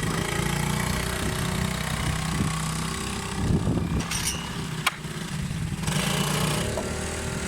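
Small engines of bumper boats running with a steady drone, with a sharp knock about five seconds in.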